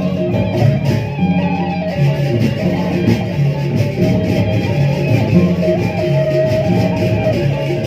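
Sasak gendang beleq ensemble playing: large two-headed drums, gongs and small cymbals keep a dense repeating pattern under a suling bamboo flute melody.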